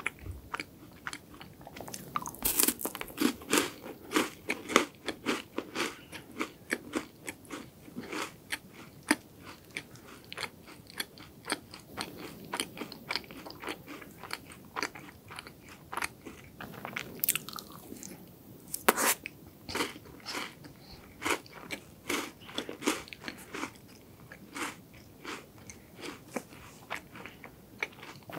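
Close-miked crunching and chewing of a chocolate-coated Loacker wafer bar eaten with bites of chocolate ice cream cake: many crisp crunches, densest early on the first bites, with one sharp loud crunch a little past the middle.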